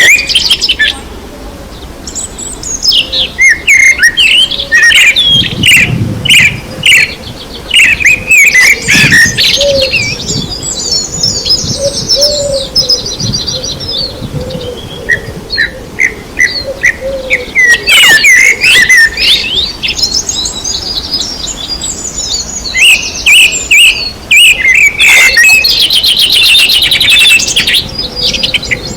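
Several songbirds singing together: a dense mix of short chirps, whistled notes and fast trills, with brief lulls about a second in and again past the middle.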